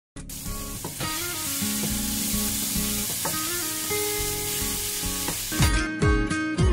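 Chicken gizzards sizzling in a frying pan as they are stirred with a wooden spatula, with background music underneath. The sizzling cuts off near the end, leaving music with a steady beat.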